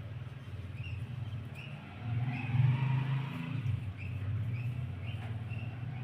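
Short high bird chirps repeating every second or less over a steady low engine-like hum, which swells for a moment around the middle.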